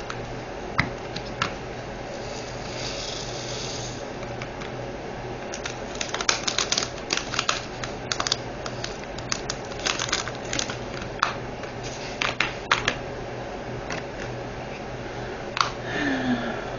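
Scattered light clicks and taps of small plastic diamond-painting drills and their storage containers being handled, densest in the middle, with a short hiss-like rustle early on. A steady low hum runs underneath.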